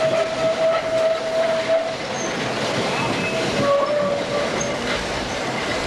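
A steam train's passenger cars rolling along the track, with a steady noise of wheels on rail. A steady high tone sounds for the first two seconds and a shorter one about two-thirds of the way through.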